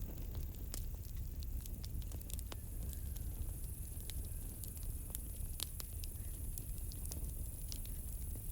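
Campfire crackling: irregular sharp pops and snaps of burning wood over a low rumble of the flames, with a steady high trill of crickets underneath.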